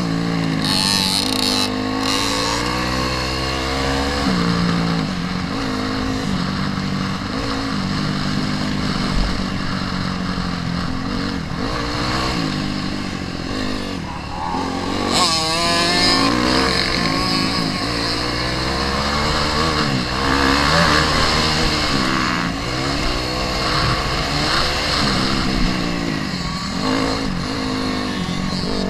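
Motocross dirt bike engine revving up and down over and over, its pitch rising and falling as the bike accelerates and shifts around the track.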